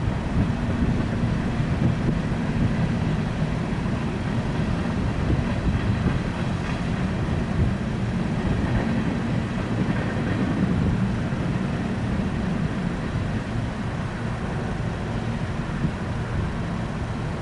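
An empty coal train rolling past, a steady rumble of wheels on rail.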